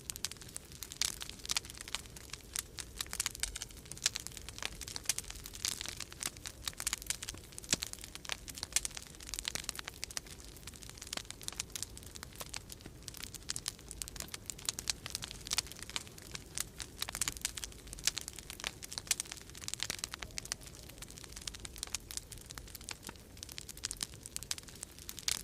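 Wood fire crackling in a fireplace, with dense, irregular pops and snaps, over a steady low rumble of storm wind.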